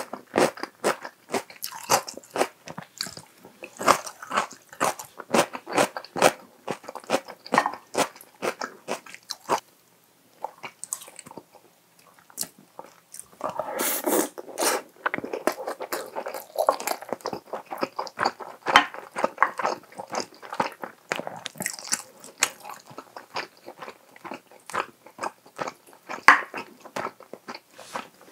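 Close-miked chewing: crisp, rapid crunches of seasoned raw cucumber salad (oi-muchim) being bitten and chewed, pausing briefly about a third of the way in. Around the middle, a spoonful of chicken-and-egg rice bowl goes in with a louder, softer, wetter stretch of mouth sounds, and then the crunching resumes.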